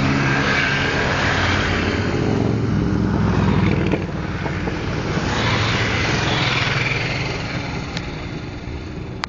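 Motorcycles passing in a large group, engines swelling and fading as they go by, with the sound dying away near the end.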